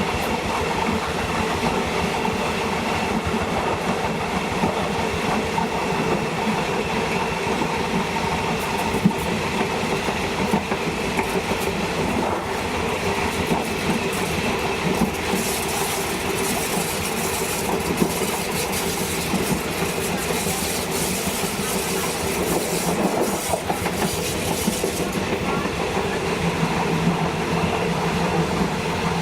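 Train running steadily along the track, its wheels clicking over the rail joints. A steady hum runs underneath, and a higher hiss is added for about ten seconds in the second half.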